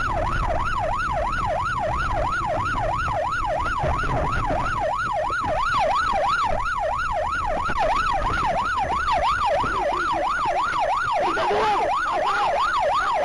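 Police car siren in yelp mode, its wail sweeping rapidly up and down about three times a second, over a low rumble.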